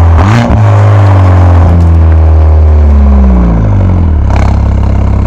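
Stage 2-tuned Mercedes-AMG A45 S's turbocharged 2.0-litre four-cylinder engine given a quick blip of the throttle, then the revs falling back over a few seconds. One sharp pop from the exhaust about four seconds in as it settles into a lumpy, pulsing idle.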